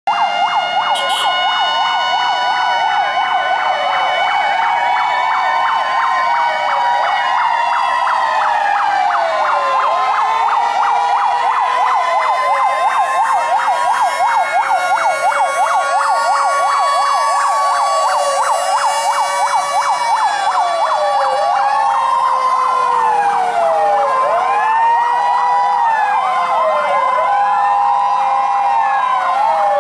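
Several fire truck sirens sounding at once and overlapping: slow rising and falling wails, rapid yelps, and two-tone hi-lo signals, none stopping.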